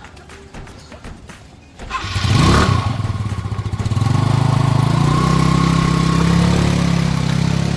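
Motorcycle engine started about two seconds in, revving briefly with a rising then falling note, then settling into a steady idle.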